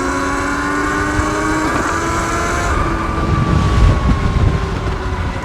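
Sur-Ron Light Bee electric dirt bike's motor whine, rising in pitch as the bike speeds up for about two seconds, then falling slowly as it eases off. Wind buffets the microphone partway through.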